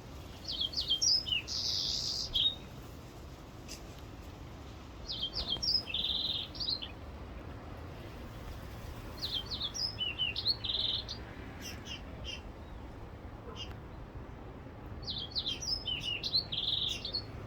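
A songbird singing four short phrases of quick, high chirping notes, each phrase ending in a buzzy trill, with pauses of a few seconds between them.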